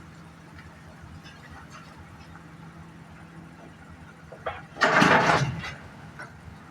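Heavy diesel mining machinery running steadily with a constant low hum. About five seconds in there is a loud crash lasting under a second.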